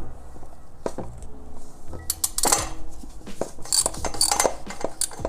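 Metal tools and parts clinking and clattering: irregular sharp clicks and knocks, thickest in the middle.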